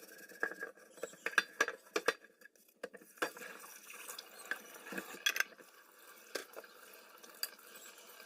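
Irregular light clicks and clinks of small hard objects being handled, some sharper than others, over a faint steady hum.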